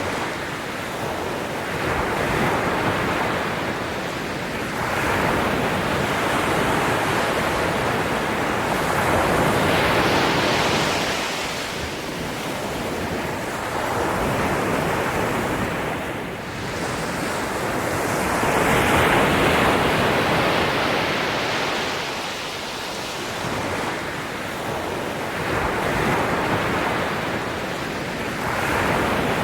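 Ocean surf: waves washing in, swelling and fading again every few seconds.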